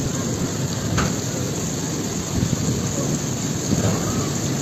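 Heavy rain pouring in a thunderstorm, with a steady low rumble under it and one brief sharp crack about a second in.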